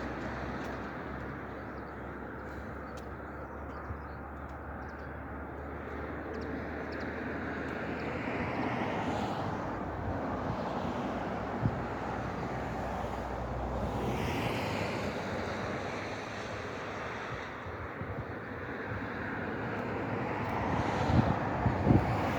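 Vehicles passing on a wet road: tyre hiss swells and fades about three times over steady outdoor noise, with low wind rumble on the microphone.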